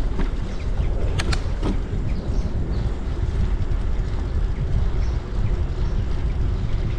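Wind buffeting the camera microphone and tyre rumble from a bicycle ride, a steady rough low rumble. A couple of sharp clicks come about a second in.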